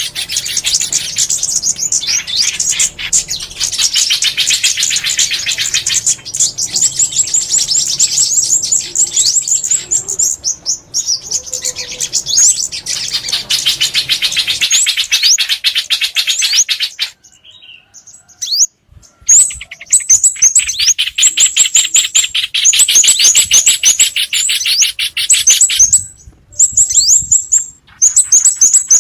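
Recorded small-songbird lure calls: a dense, rapid high-pitched twittering of many quick chirps. It breaks off briefly a little past the middle, then starts again just as busily.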